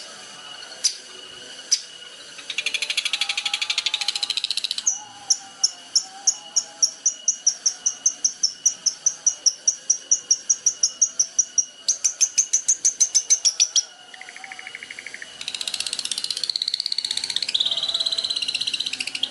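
Recorded songbird song: a few sharp clicks and a buzzy rattle, then a long run of sharp repeated chirps about five a second, a faster trill near the middle, and varied twittering toward the end.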